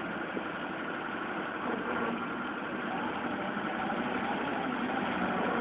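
Forklift engines idling steadily with an even mechanical hum.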